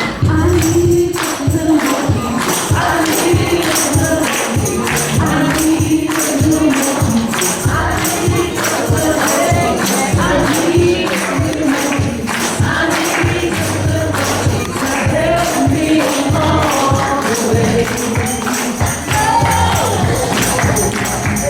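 Gospel music: a choir singing over a steady beat, with a tambourine shaken and struck in time.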